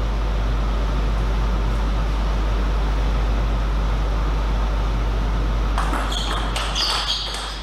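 Steady low hum and background noise in a large hall, then, about six seconds in, a quick run of sharp table tennis ball clicks as the ball strikes bat and table.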